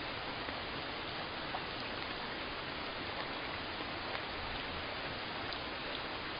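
Steady rainfall, an even hiss with occasional faint drop ticks.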